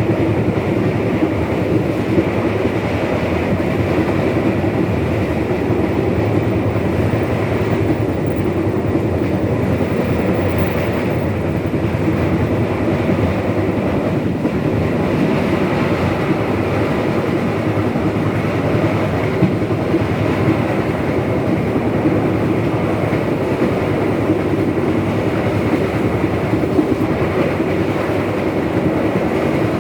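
Economy passenger train running along the track: steady, even running noise from the wheels and carriage, without pause or change.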